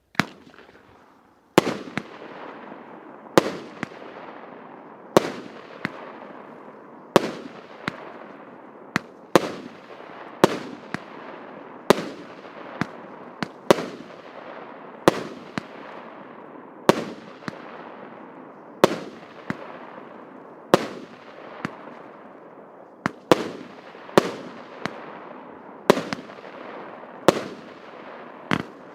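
A 1-inch, 20-shot consumer firework cake firing. Sharp bangs come every second or two, sometimes in quick pairs, and each is followed by a fading hiss and crackle as the stars burst.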